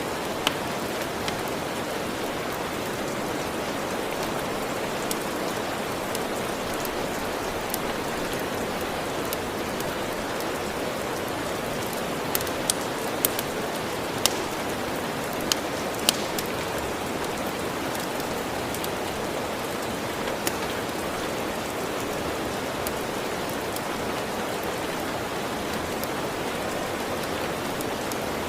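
Steady rain, a constant hiss, with the sharp pops of a crackling wood fire scattered through it, several bunched together about halfway through.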